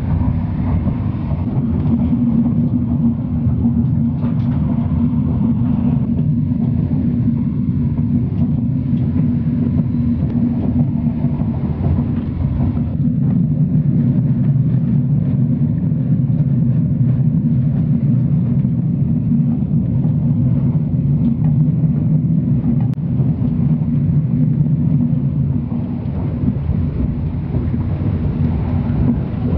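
Passenger train running at speed, heard from inside the carriage: a steady low rumble of wheels on track and running gear.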